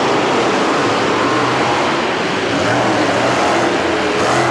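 Monster truck engine running loud, its pitch wavering up and down.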